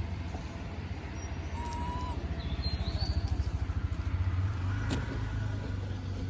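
Motor vehicle engine running nearby: a steady low rumble that swells with a fast pulsing beat in the middle. Two short high-pitched calls come early, and one sharp click sounds near the end.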